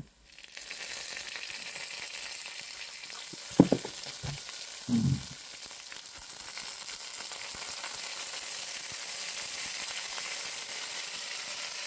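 Grated ginger sizzling and popping in hot oil and burnt brown sugar in a pot: the water from the fresh ginger spitting in the oil. A sharp knock stands out about three and a half seconds in.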